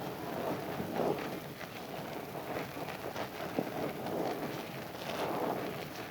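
Wet rubbing and squishing of a Zest bar soap being lathered, with scattered small clicks.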